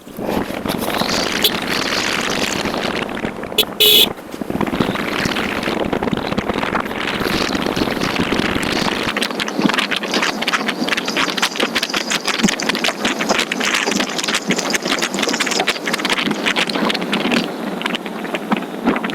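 Wind rushing and buffeting over the microphone of a moving motorcycle, mixed with engine and road noise. A brief, loud, high-pitched sound cuts in about four seconds in.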